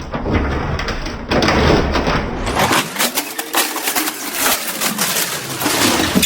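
Irregular knocks, creaks and scraping of a washing machine being moved and handled into place.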